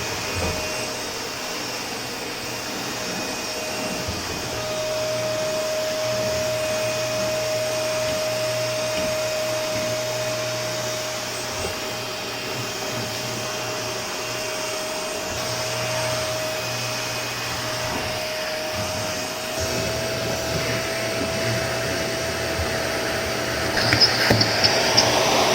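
Vacuum cleaner running steadily, a constant motor whine over a rushing airflow hiss. Near the end it gets louder, with a quick run of crackling clicks.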